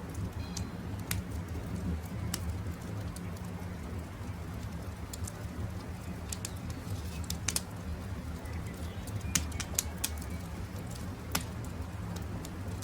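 Wood campfire crackling, with irregular sharp pops over a steady low rumble. A few faint, brief bird chirps sound above it.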